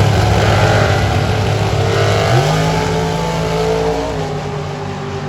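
Drag racing car's engine under hard acceleration down the strip. The engine note steps up in pitch about halfway through, then fades as the car draws away.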